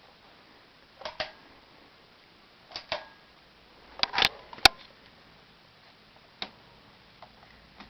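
Irregular sharp clicks from a Heritage Lancaster ceiling fan's pull chains, several in close pairs, with a louder single click a little before the middle.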